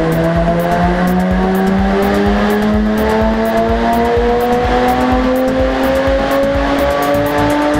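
Jaguar F-Type S's 3.0-litre supercharged V6 running under load on a chassis dyno. Its pitch rises slowly and steadily as the revs climb through one long gear.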